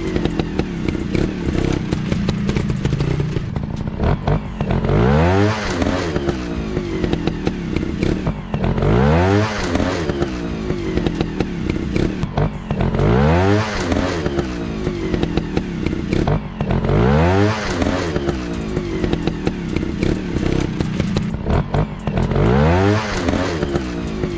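Single-cylinder four-stroke dirt bike engine revving up again and again, each burst of throttle rising in pitch about every four seconds, with clattering knocks mixed in.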